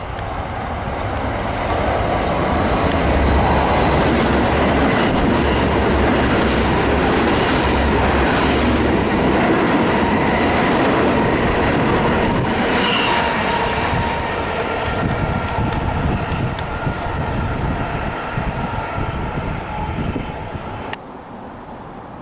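Long Island Rail Road train passing through the station: a loud rumble of the train that builds over the first couple of seconds, holds, then slowly eases off, with a few faint steady whines over it, cutting off suddenly near the end.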